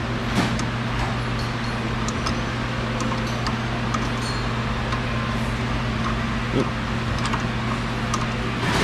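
Steady low machine hum in a workshop, with a few light scattered clicks and taps from a tie rod adjuster being turned.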